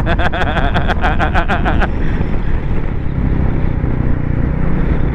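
Royal Enfield Bullet 350's single-cylinder engine running on the move, mixed with wind noise. A person's voice comes in quick rhythmic pulses for about the first two seconds.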